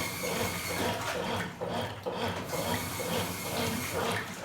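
Top-loading washing machine agitating a load in water: the motor hums while the agitator swishes and sloshes the water back and forth in a steady rhythm, a little over twice a second. The agitation is weak at the high water level.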